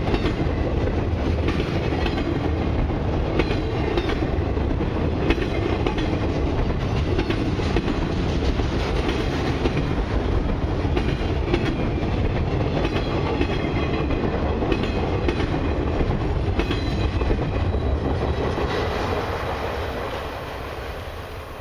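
Freight train's TTX flatcars rolling past, their steel wheels rumbling and clicking over the rail joints. About three-quarters of the way through, the end of the train passes and the sound fades away.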